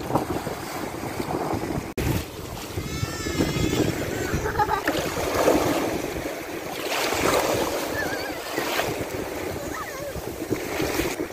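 Waves washing on a shore, with wind buffeting the microphone and faint voices in the background.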